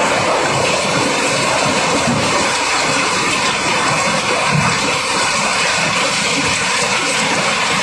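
Cobblestones flowing out of a barge during unloading: a loud, steady, dense clatter of many rocks knocking against each other.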